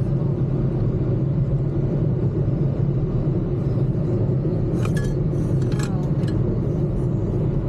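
Steady low road and engine rumble of a car being driven, heard from inside the cabin, with a few light clinks about five to six seconds in.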